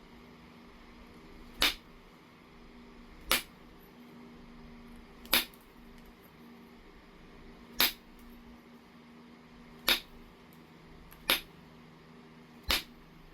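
Heat-treated Oregon jasper being knapped: seven sharp clicks as flakes come off the stone, spaced irregularly about one and a half to two and a half seconds apart.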